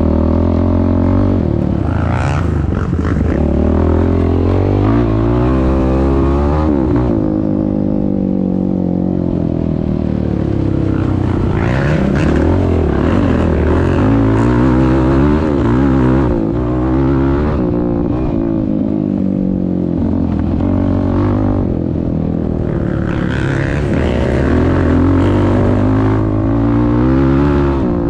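Yamaha YFZ450R quad's single-cylinder four-stroke engine running through a Rossier R5 aftermarket exhaust while being ridden, revving up and dropping back again and again.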